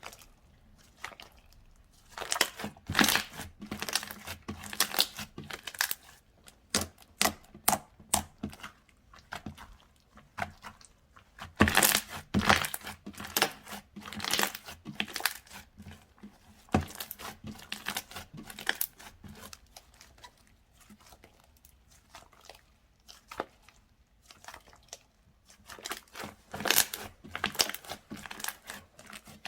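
Slime being squeezed, folded and stretched by hand, making crisp crackling and popping clicks in bursts, with short pauses between handfuls.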